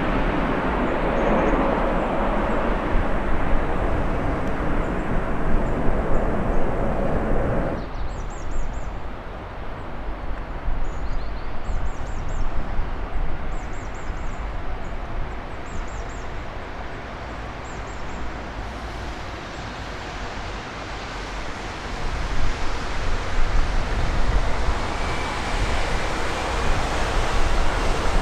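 Jet airliner engine noise: a loud steady rush with a low hum that cuts off abruptly about eight seconds in, leaving a quieter rumble, before another jet's noise builds again near the end with a faint rising whine.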